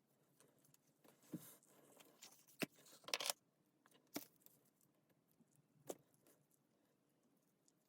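Faint handling noises of tools and small parts: a few separate sharp clicks and knocks, with a short scrape a little after the first second.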